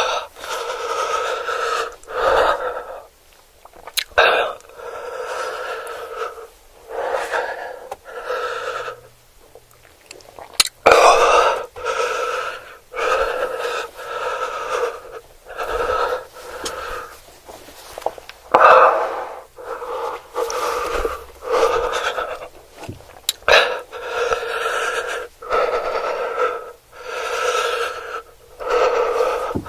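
A person close to the microphone making repeated rasping, wheeze-like mouth and breath sounds, each lasting about a second with short gaps between.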